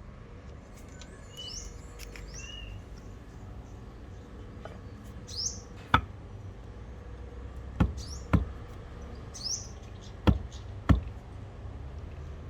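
Birds chirping in short rising calls, with five sharp knocks at irregular intervals in the second half.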